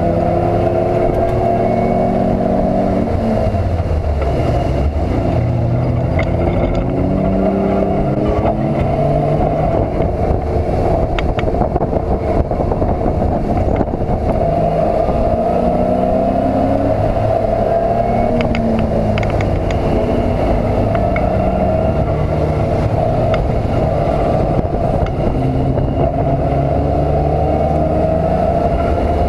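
BMW E36 race car's engine heard from inside the stripped cabin, its pitch repeatedly climbing and dropping as it accelerates, shifts and slows through the corners, over steady road and wind noise.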